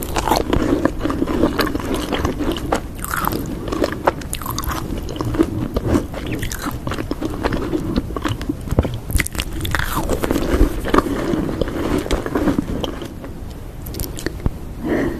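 Macarons being bitten and chewed close to the microphone: the crisp shells crunch and crackle with many small sharp clicks over steady chewing.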